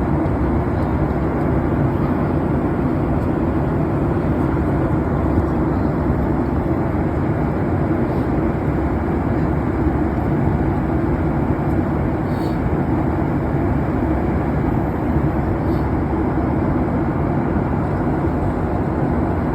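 Steady engine and air noise inside an airliner's passenger cabin in flight: an even, unbroken drone.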